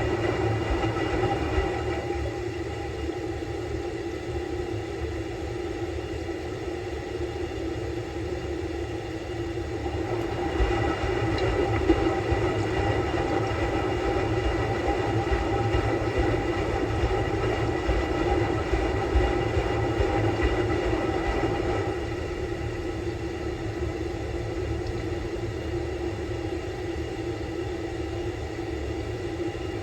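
Samsung Bespoke Grande washing machine running a quick-wash cycle: a steady rumble of the turning drum with a constant motor hum over it. It grows louder about a third of the way in and settles back down near the last third.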